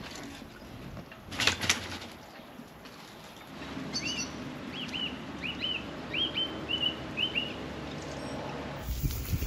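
Two sharp knocks about a second and a half in as a bicycle is lifted off the boat. Then a bird calls with a string of about eight short, quick chirps. A low rumbling noise sets in near the end.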